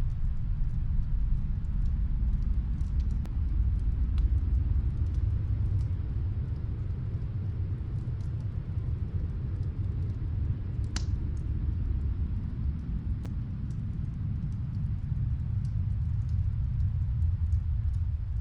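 Steady low rumble of snowstorm wind, with faint scattered crackles of a wood fire heard muffled from another room and one sharper pop a little past the middle.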